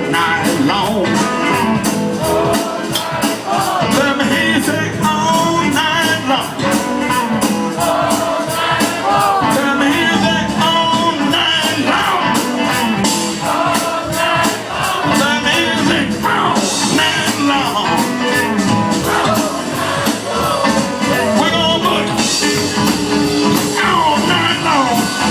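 Live blues band playing an uptempo boogie, with drums keeping a steady fast beat under bending lead lines.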